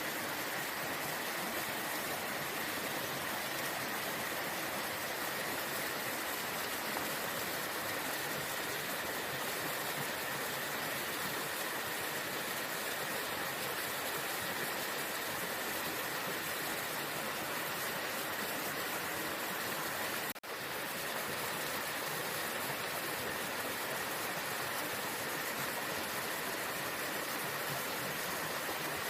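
Waterfall rushing as a steady, even wash of water noise, broken by a momentary dip in level about twenty seconds in.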